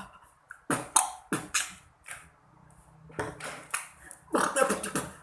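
Vocal beatboxing: sharp percussive mouth sounds in a quick run, then a low hum held for about two seconds, then another quick cluster of beats near the end.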